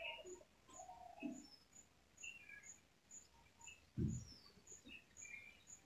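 Faint birds chirping in short calls, with a high peep repeating about twice a second. A single low thump comes about four seconds in.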